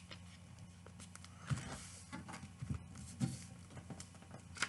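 A sheet of paper rustling faintly as it is folded and handled, with a few soft crinkles and taps between about one and a half and three and a half seconds in, over a low steady hum.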